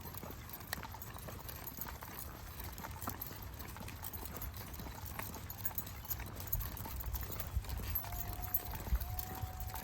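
Footsteps of a person and a pack of dogs walking on a trail, with scattered light clicks over a low rumble. A faint, steady, whistle-like tone sounds twice near the end.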